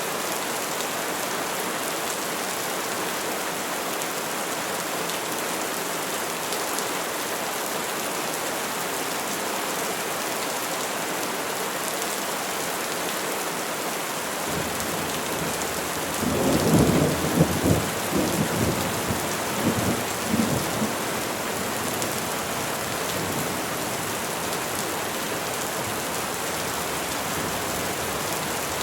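Steady rain falling. About halfway through, a roll of thunder rumbles in, swelling to several loud peaks over a few seconds, then fades back under the rain.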